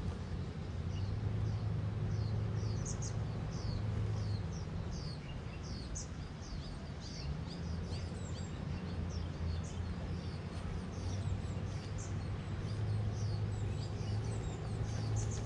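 Small birds chirping over and over with short, quick falling notes, over a steady low rumble.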